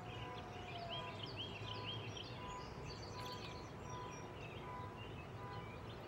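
Birds chirping in quick repeated short notes over a steady low outdoor rumble.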